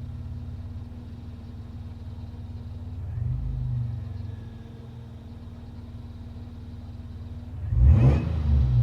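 Supercharged Toyota 3.4-litre V6 idling steadily on the warm-up after a cold start, a low rumble with a faint steady tone over it; the intermittent ticking has not set in yet. The rumble swells briefly about three seconds in, and a loud sudden burst of noise comes near the end.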